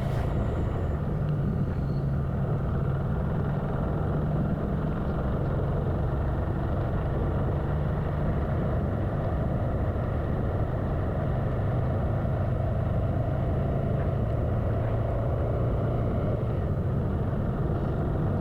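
Motorcycle being ridden at a steady pace, its engine running evenly with no change in speed or revs.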